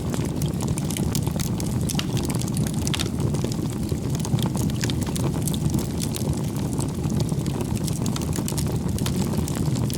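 Wood fire burning, a steady low rush of flames with many small irregular crackles and pops from the burning firewood.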